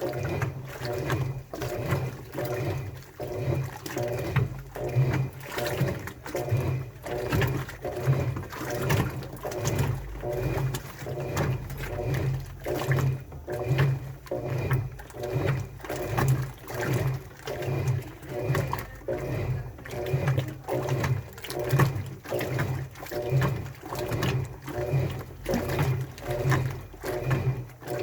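Washing machine in its wash cycle: the drum turns the wet laundry in an even rhythm of about one and a half swishes a second, each with a low motor hum and water sloshing.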